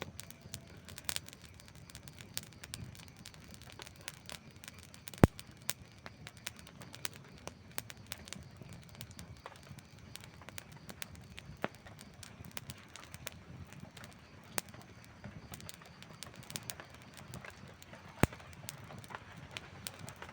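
Wood campfire crackling, with irregular snaps and small pops over a low steady rumble of the flames. Two sharp pops stand out, about five seconds in and near the end.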